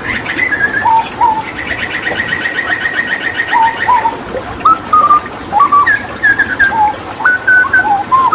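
Hooded butcherbird singing a string of clear whistled notes with short upward and downward glides, broken by a rapid trill about a second and a half in. A steady rush of running water lies underneath.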